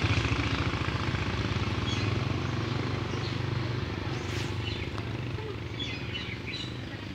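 Motorcycle engine idling with a low, rapid pulsing, slowly growing quieter.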